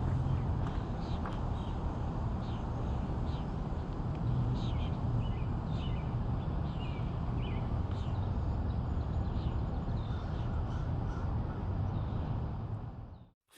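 Outdoor ambience with birds calling in short chirps over a steady low rumble; it fades out near the end.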